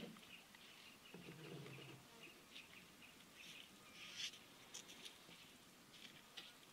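Quiet ambience with faint bird calls and chirps. A brief low sound comes about a second in, and a few soft clicks follow later.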